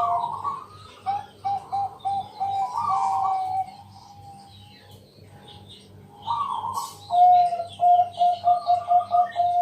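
Zebra dove (perkutut, Bangkok type) cooing in runs of short, quick repeated notes with higher rising phrases. It pauses for about two seconds mid-way, then starts again. Smaller birds chirp faintly behind it.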